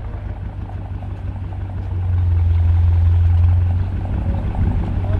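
Car engine idling with a deep, steady exhaust rumble that swells louder about two seconds in and eases back near the end.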